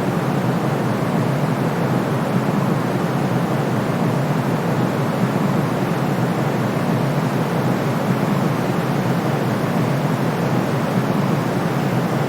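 A steady, unbroken white-noise sleep sound for babies. It is weighted toward the low end, so it sounds like a deep, even rush rather than a bright hiss.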